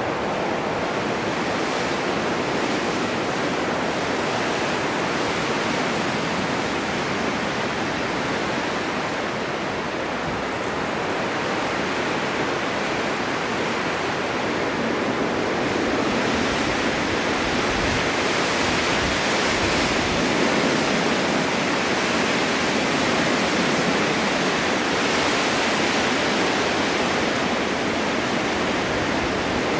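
Winter wind blowing steadily in a snowstorm, a constant rushing that swells slightly a little over halfway through.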